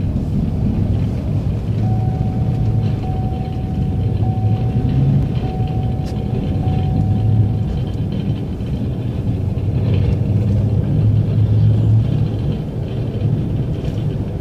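Snow-plow truck's engine running with a steady low rumble. A faint high steady tone sounds for about six seconds, starting about two seconds in.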